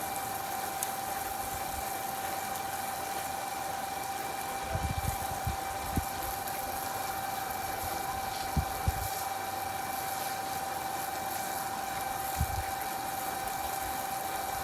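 A steady mechanical hum with a constant whine, broken by a few dull low thumps.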